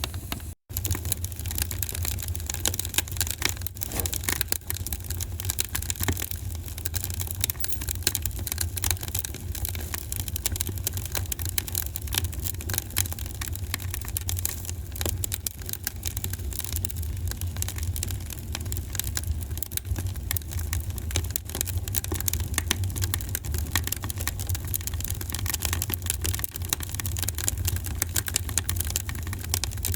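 Wood fire crackling in a fireplace: dense, irregular pops and snaps over a steady low rumble of the flames. The sound cuts out for an instant about half a second in.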